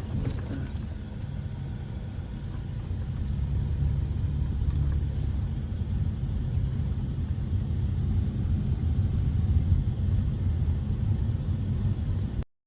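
Low, steady rumble of a car heard from inside the cabin as it drives slowly, engine and road noise, growing a little louder a few seconds in and cutting off abruptly near the end.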